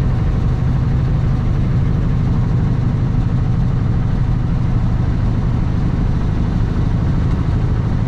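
Diesel engine of a 2021 Kenworth W900 semi truck running steadily with a low, even drone.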